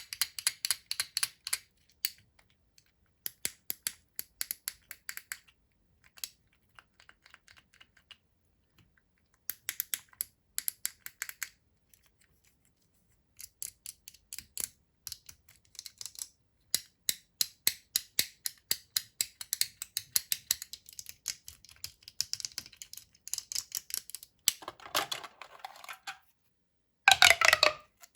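Quick bursts of crisp clicking and tapping on plastic candy toys and their packaging, coming in runs with short pauses between them. The sound grows denser and rougher near the end.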